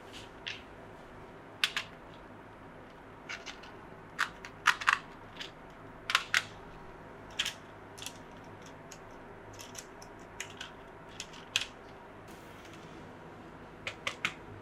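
Irregular sharp clicks and taps of small hard plastic parts and packaging being handled, some in quick pairs, over a faint steady hum.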